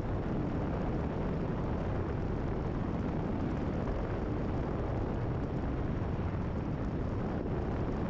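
Steady drone of a Cessna 172RG's Lycoming four-cylinder engine and propeller heard from inside the cabin, at full takeoff power during the climb-out just after the landing gear has been retracted.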